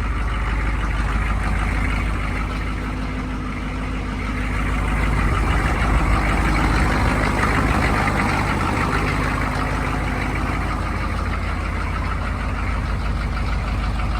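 6.2-litre Detroit diesel V8 of a 1985 Chevy K10 Suburban idling steadily after a cold start, growing somewhat louder about five seconds in.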